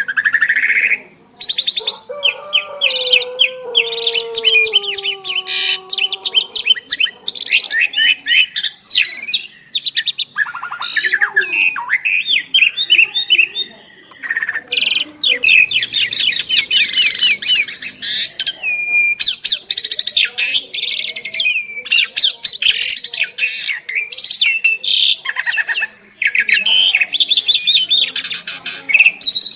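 Two pied starlings (jalak suren) singing in duet: loud, fast runs of repeated chattering and whistled notes, with a lower, falling warbled phrase a couple of seconds in.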